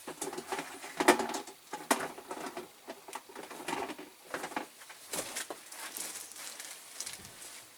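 Irregular clicks, light knocks and scraping as small diecast parts are handled and stirred in a caustic soda paint-stripping bath.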